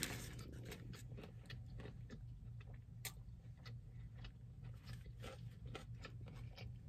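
Faint sounds of a person chewing a mouthful of burger with the mouth closed: soft, irregular mouth clicks scattered throughout, over a steady low hum.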